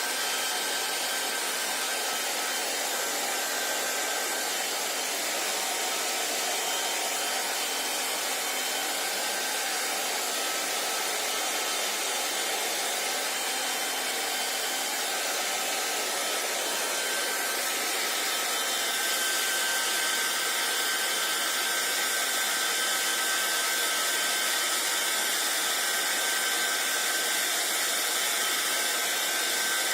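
Hand-held hair dryer running steadily: an even rush of blown air with a faint whine from its motor. It gets slightly louder about two-thirds of the way through.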